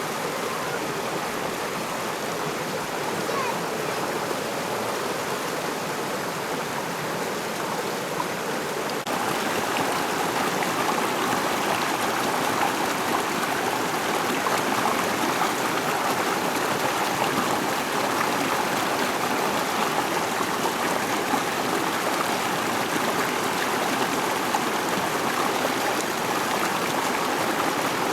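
Rushing water of the McCloud River: a steady, even flow, a little louder from about nine seconds in.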